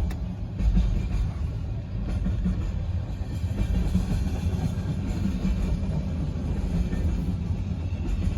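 Steady low rumble of a BNSF coal train's diesel locomotives, heard muffled from inside a car with the window closed, after a short sharp thump at the very start.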